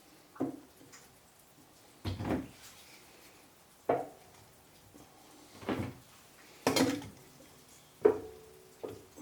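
A series of separate knocks and clunks, roughly one every second or two, of objects being handled, a couple of them leaving a short ringing tone.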